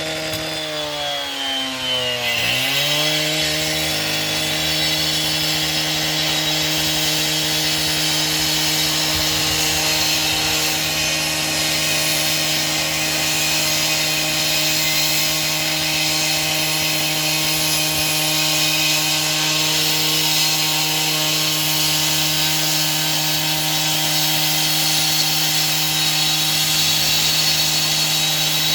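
Engine-driven saw running at high speed, cutting. Its pitch sags about two seconds in, as if the engine is briefly pulled down, then recovers and holds steady.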